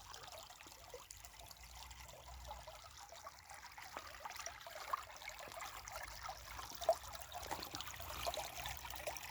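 Shallow stream trickling faintly and steadily over stones.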